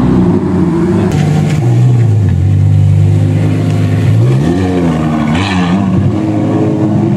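Car engine under way with a manual gearbox, heard from inside the car. Its pitch drops about two seconds in, then rises and falls twice more, as with gear changes and throttle.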